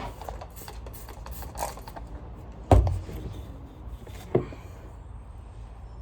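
Handling noises from gear being moved about: light taps and knocks, one heavy thump about three seconds in, and a sharper knock a second and a half later.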